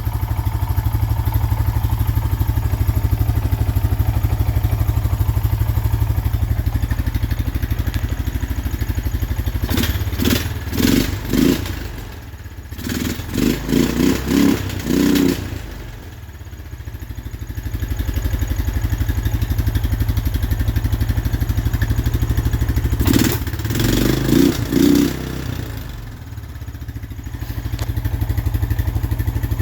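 Honda Foreman 450's single-cylinder four-stroke engine idling steadily, freshly rebuilt with a new piston, cylinder and valve seals and running without smoke. Twice, about ten seconds in and again past twenty seconds, comes a cluster of short, uneven blips of higher revs before it settles back to idle.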